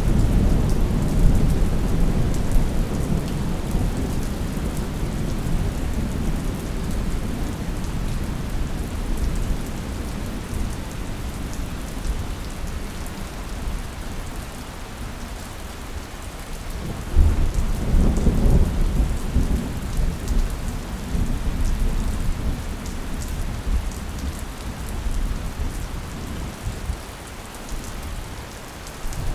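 Thunderstorm: steady rain falling with low rolling thunder. One rumble fades over the first half, and a fresh thunderclap breaks about two-thirds of the way through and rolls away over several seconds.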